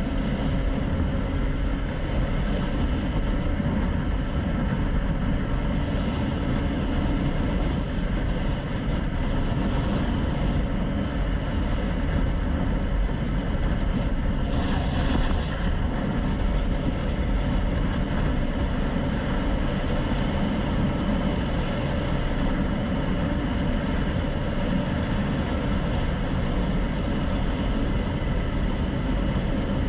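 Motorcycle engine running steadily while riding, with road and wind noise on the camera microphone.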